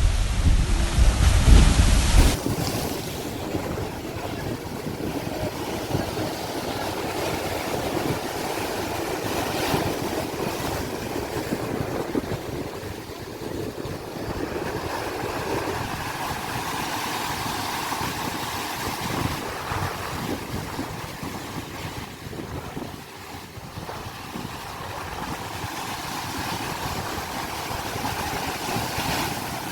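Sea waves breaking and washing in, a steady rushing surf that swells and eases. For about the first two seconds heavy wind buffets the microphone, and it cuts off suddenly.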